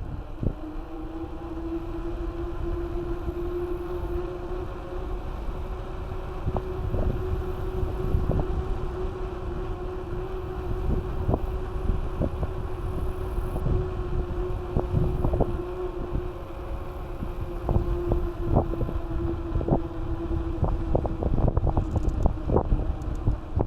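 Mountain bike being ridden: wind buffets the microphone, the bike gives a steady hum, and knocks and rattles come from the bike going over bumps, more of them in the second half.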